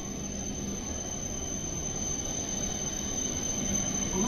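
E7 series Shinkansen train braking as it pulls into the station, its running noise growing steadily louder, with a steady high-pitched squeal over it.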